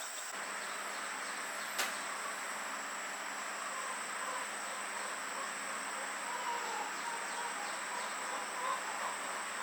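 Insects droning steadily at a high pitch, with a single sharp click about two seconds in.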